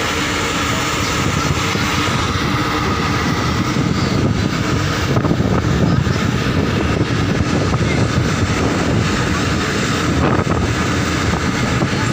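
Small passenger motorboat's engine running steadily.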